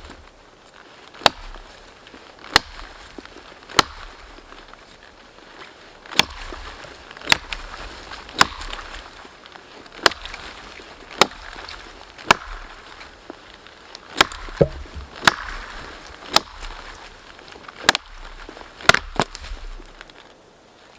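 Axe chopping wood: about sixteen sharp strikes, mostly a second or so apart, with a short pause about four seconds in.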